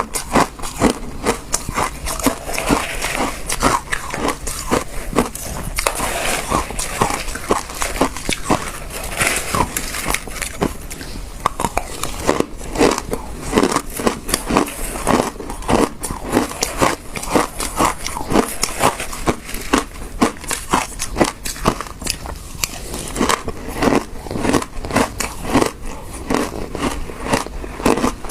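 Frozen passion fruit ice being bitten and chewed, a dense run of sharp crunches and crackles several times a second without a break.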